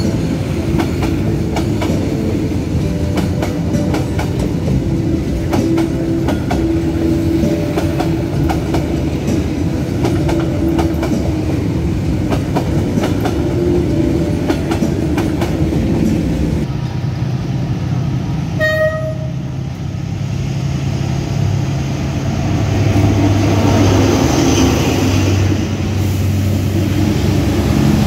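Passenger train coaches rolling past, wheels clacking steadily over the rail joints. After a cut, a short high horn toot, then a diesel locomotive's engine grows louder as it approaches, and the coaches start clattering by near the end.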